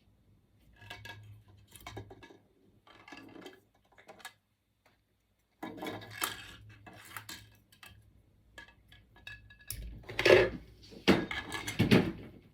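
Small metal parts and tools clinking, rattling and knocking as they are handled, in separate bursts with pauses between them and the loudest clatter near the end.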